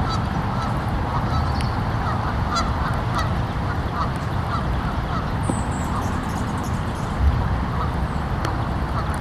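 Waterfowl calling, many short honking calls in quick succession, over a steady low rumble.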